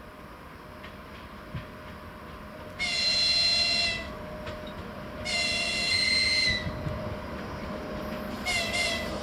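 Electric locomotive's high-pitched horn sounding two long blasts, then a run of short blasts near the end, as a greeting from the crew. A train's low rumble runs underneath.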